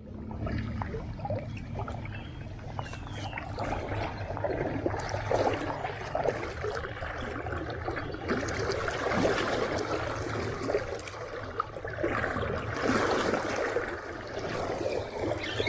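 Creek water running and trickling, with irregular small splashes.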